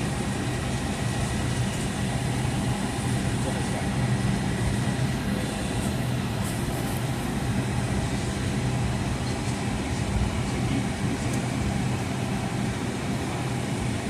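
Steady cabin noise inside a Boeing 757-251 on the ground, its Pratt & Whitney PW2037 engines at idle thrust with a constant low hum and the airflow hiss of the cabin air.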